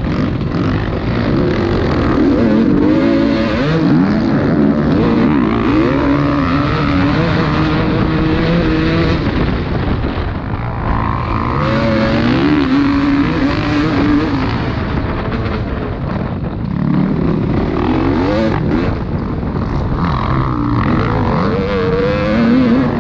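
Several motocross bikes racing, their engines revving up and dropping back again and again through gear changes, with more than one engine heard at once.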